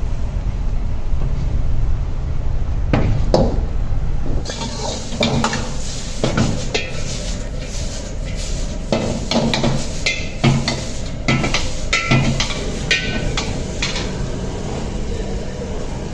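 A metal ladle or spatula knocking and scraping in a wok while stir-frying, with repeated clattering strikes that grow busier about four seconds in, over a steady low rumble.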